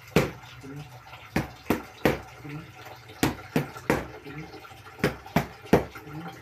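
Boxing punches landing in quick three-punch combinations, with about a second's pause between combinations.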